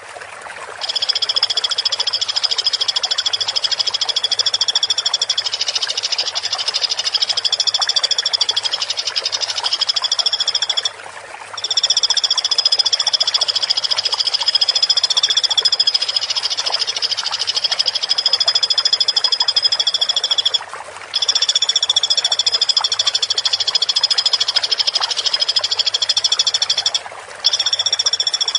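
Woodpecker (pelatuk) call played as a looped masteran track: a continuous rapid rattling trill, high-pitched. It breaks off abruptly for a moment three times and starts again.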